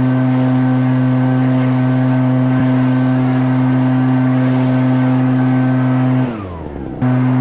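Echo PB-9010T backpack leaf blower's two-stroke engine running steadily at high throttle. About six seconds in its pitch slides down as it winds off, then it is suddenly back at full speed.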